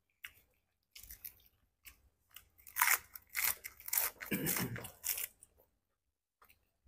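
Close-up chewing and crunching while eating spicy boiled shrimp: a run of crisp crunches, densest and loudest in the middle, then stopping about five seconds in.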